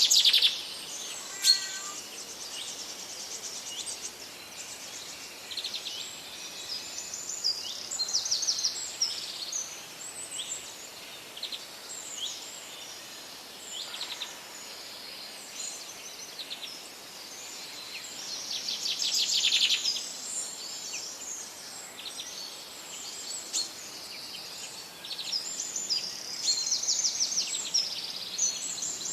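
Several wild birds singing and calling over one another, a mix of high chirps and rapid trills, with a louder burst of fast trilling about two-thirds of the way through.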